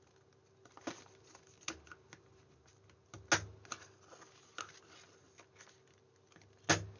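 Scattered sharp clicks and taps of card stock being handled and its corners rounded off with a corner punch. The two loudest come about three seconds in and near the end.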